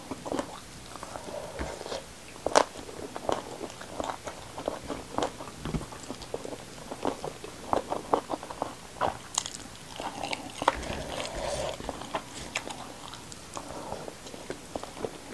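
Close-up chewing of raw green vegetables and rice: many short, irregular crunches throughout.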